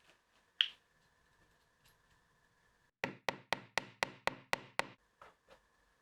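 Knocking on wood: one sharp click, then a quick even run of eight knocks about four a second, followed by two fainter knocks.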